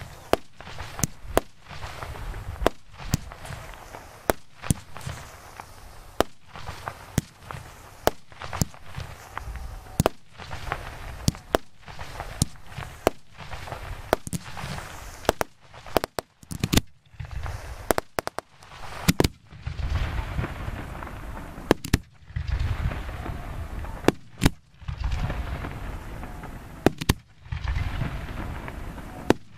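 Fireworks display heard close to the firing positions: an irregular string of sharp bangs, about one or two a second, with low rumble and crackle between them.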